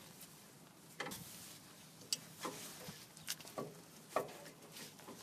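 Scattered light metallic clicks and taps, about six over a few seconds, from handling the rear brake caliper and screwing its caliper bolts back in.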